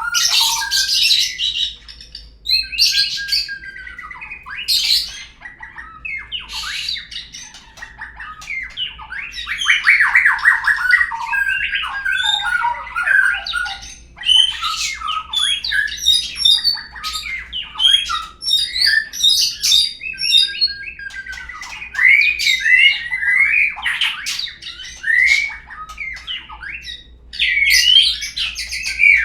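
Murai bird song, a lure recording (pancingan) of the kind played to prompt a caged murai to sing. It runs as a rapid, varied string of whistles, chattering trills and sliding notes with only short gaps.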